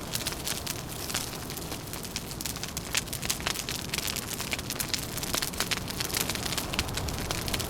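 Fire crackling, with many irregular sharp pops and snaps over a steady low rumble.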